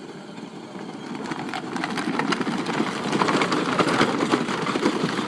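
Battery-powered ride-on toy truck driving in circles, its small electric motor running and its plastic wheels rattling and crunching over the ground. It grows louder over the first couple of seconds.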